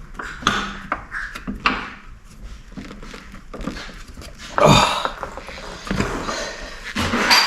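Scattered knocks and clicks of metal parts and tools being handled at a motorcycle's rear wheel, with a louder clunk a little over halfway through and another near the end.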